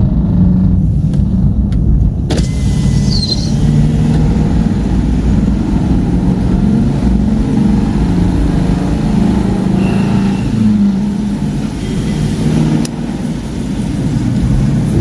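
Car engine hum and road noise heard inside the cabin while driving, a steady low drone. A sharp click comes about two seconds in, after which a hiss of outside noise grows louder.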